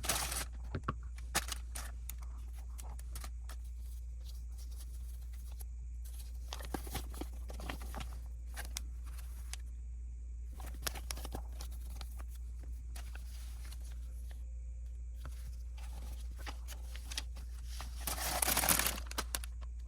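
Plastic Lego bricks clicking and rattling as they are handled and snapped together, with short rustles of packaging and a longer burst of plastic-bag rustling near the end, over a steady low hum.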